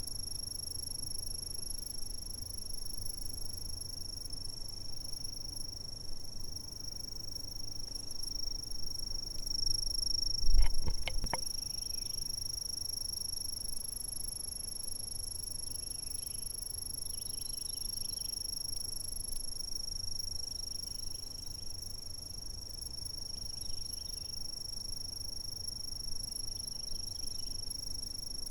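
Insects trilling in one continuous high-pitched drone, with fainter chirps joining in now and then in the second half. A thump with a few sharp clicks about ten and a half seconds in is the loudest moment.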